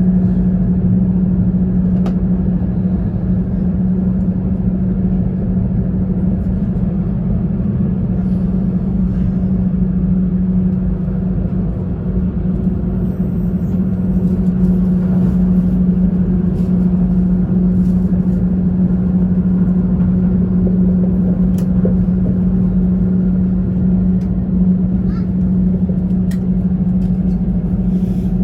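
Steady running noise inside the cabin of an E2 series Shinkansen train at speed: an even rumble with a steady low hum and a few faint ticks.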